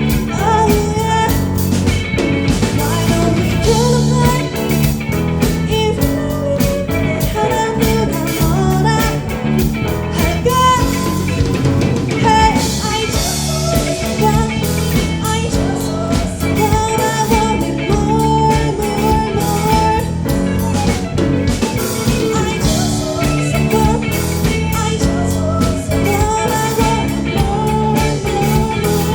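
A live rock band playing a song: drum kit, bass, electric guitars and keyboard under a female lead singer.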